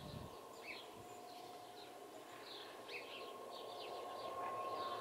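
Small birds chirping in short, scattered calls over a faint steady hum that grows a little louder toward the end.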